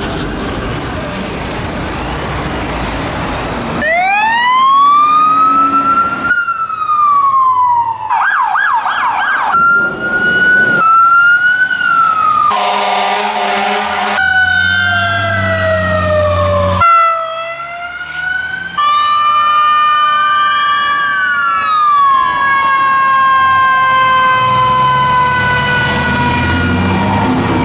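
Fire trucks responding code 3 pass one after another with their sirens going. About four seconds in, a siren winds up smoothly. It is followed by a rapid yelp, a short air-horn blast, and several overlapping wailing sirens that fall in pitch as they go by, over the rumble of heavy diesel engines.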